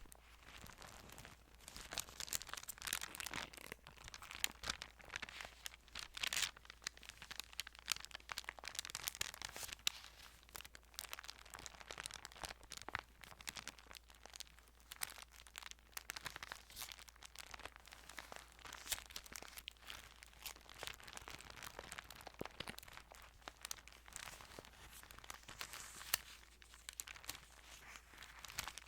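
Thin Bible pages being handled and turned, a continuous run of crisp paper rustles and small crinkles.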